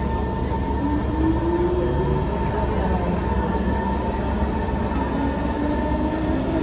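Singapore MRT train running, heard from inside the car: a steady low rumble with a constant whine, and a motor tone that rises in pitch over the first couple of seconds as the train gathers speed.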